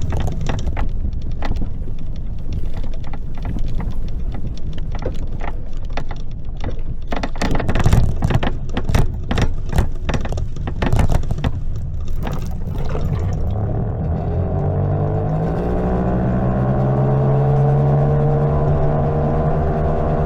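Greenworks 60V electric mini bike being ridden, rattling and knocking over rough ground with a low rumble. About fourteen seconds in the rattling eases, and a steady hum comes in that rises slightly in pitch and then holds.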